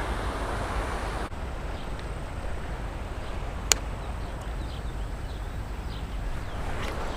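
Steady rushing of water over a creek spillway and small waterfall, with a single sharp click a little over halfway through.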